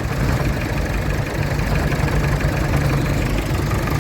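Vintage tractor engine idling steadily with an even, low rumble.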